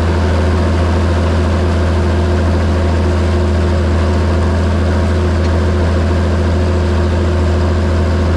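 John Deere 7730 tractor's six-cylinder diesel engine running steadily at constant speed, with a deep, even hum.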